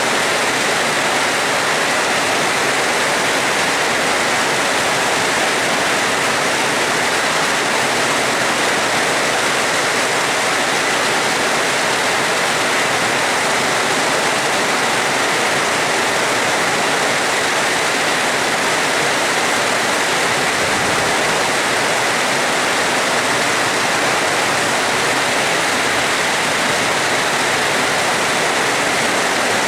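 Heavy rain falling in a steady, even downpour, with no thunder heard.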